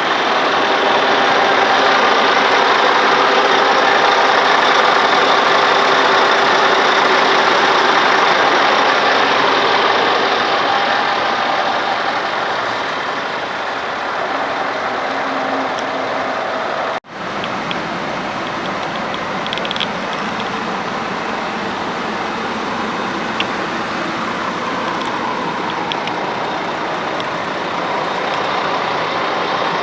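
Scania R490 truck's 13-litre straight-six diesel engine idling steadily. It is somewhat louder over the first ten seconds, and the sound cuts out for an instant about 17 seconds in.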